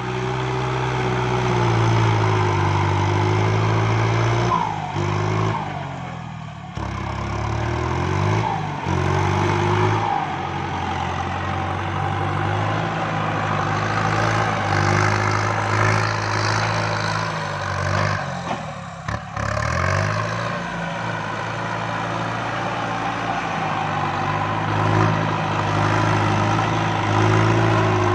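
Kubota MU5702 tractor's diesel engine working while pushing soil, its engine note sagging under load and picking up again several times, with deeper dips about 6 and 19 seconds in.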